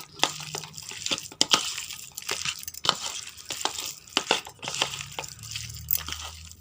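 Chicken pieces being mixed through a thick cornflour and spice marinade in a bowl. It is an irregular run of wet squelches and sharp clicks.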